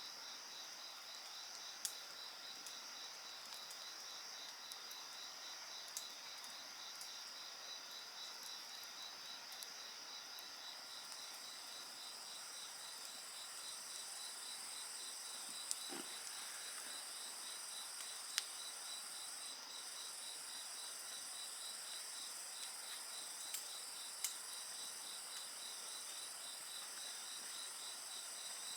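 Crickets and other insects singing steadily, one with an even pulsing chirp, and a higher-pitched insect trill joining about a third of the way in. A bonfire crackles with a handful of sharp pops.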